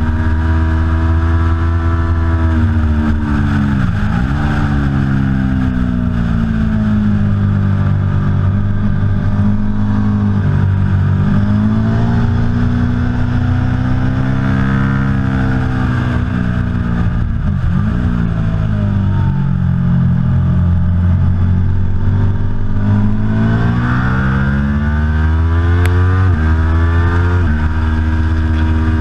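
Aprilia Tuono V4 Factory's V4 engine being ridden hard on track. The revs climb and fall continuously, drop sharply twice under braking (about four and seventeen seconds in) and step through quick gear changes near the end.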